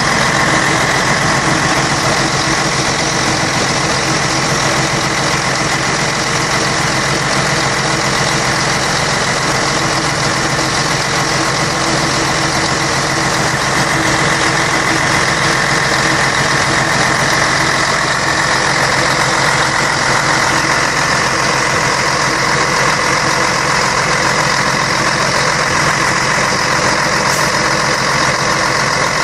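Scania K113 bus's 11-litre six-cylinder diesel engine running steadily.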